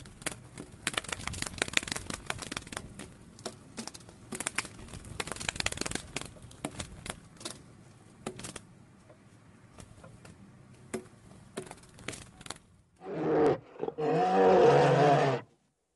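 Faint scattered clicks and crackles, then near the end a brown bear growling loudly: a short growl followed by a longer one.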